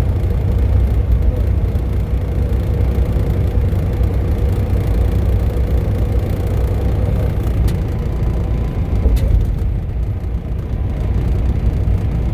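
Grain truck driving on the highway, heard from inside the cab: a steady low rumble of engine and road noise with a faint steady hum above it.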